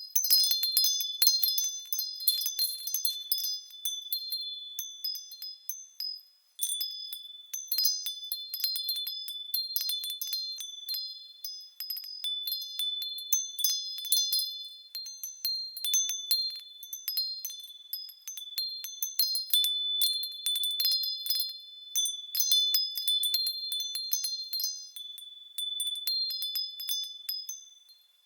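Japanese furin wind bells ringing in the breeze: irregular clusters of high, clear strikes over a lingering ringing tone, dropping away briefly about six seconds in.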